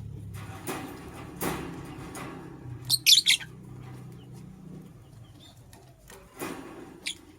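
Gray lovebird giving a quick burst of sharp, high chirps about three seconds in and a single chirp near the end. Softer rustling or wing flutters come in between.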